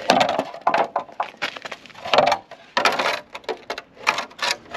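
Irregular rustling, scraping and clicking of parts being handled and pulled about, with no steady rhythm.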